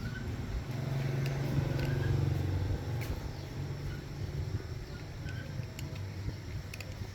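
Low engine rumble that swells to its loudest about one to three seconds in, then eases off.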